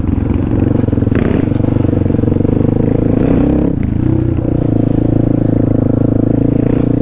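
Trail motorcycle engine running steadily at low speed on a dirt trail, with a brief drop in revs about four seconds in before it picks up again.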